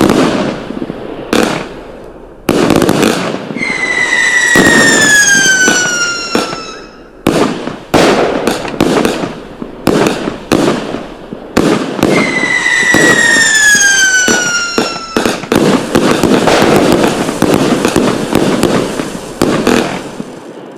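Fireworks going off: many sharp bangs and dense crackling reports, with two long whistles that fall steadily in pitch over about three seconds each, one a few seconds in and another about twelve seconds in.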